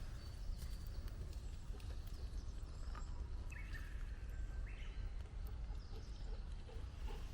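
Quiet forest ambience with a steady low rumble of wind on the microphone and a bird calling faintly about halfway through. A dog starts panting softly near the end.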